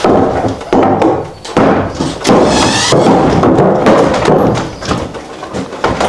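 Interior wall being broken apart by hand: a run of heavy thuds, one about every three-quarters of a second, each followed by the rattle of falling debris.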